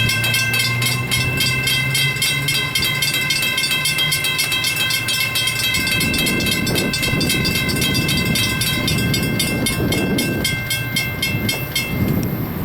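Railroad crossing bell ringing rapidly and steadily, with the low rumble of a passing train building from about halfway through; the bell stops just before the end.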